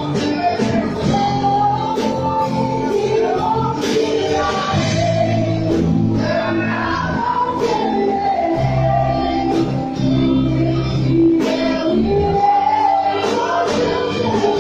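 Live worship music in a church hall: singing over guitar, bass and drums, with a steady beat.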